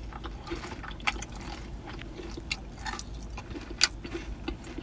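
Close-up eating sounds: scattered small wet clicks and smacks of a fried cheese stick dipped in sauce and chewed.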